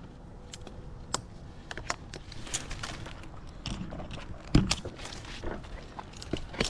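A tree climber handling rope and gear among the branches: scattered small clicks and rustles, with one louder knock a little past halfway.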